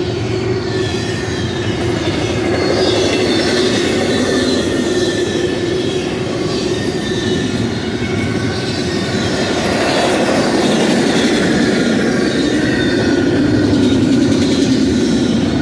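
Double-stack intermodal freight train's well cars rolling past at speed: steady loud noise of steel wheels on rail, with no break.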